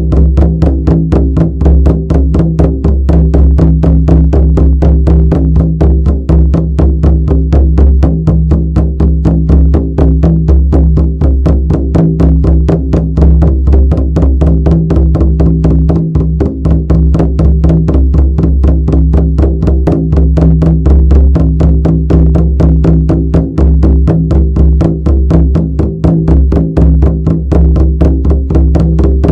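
Shamanic drum beaten in a steady, fast, unbroken rhythm of about four strokes a second, its deep resonance sustaining between strokes.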